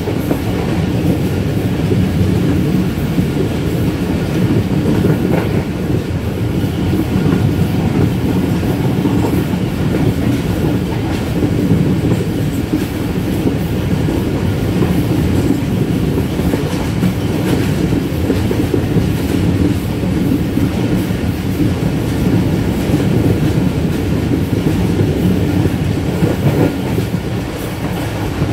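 Moving train: a steady, loud rumble of wheels running on the rails.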